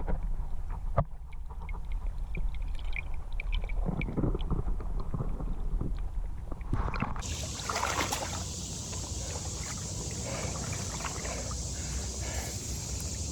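Creek water splashing and sloshing around the angler as he handles a big brown trout in the stream, over a low wind rumble on the microphone. About seven seconds in, a steady high hiss sets in behind it.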